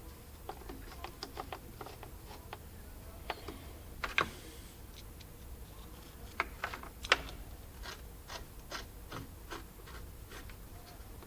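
Phillips screwdriver driving short screws back into a plastic backup-camera housing: a run of light, irregular clicks and ticks, with a sharper knock about four seconds in and another about seven seconds in.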